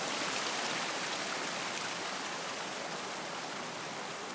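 River water flowing past the bank, a steady even rush.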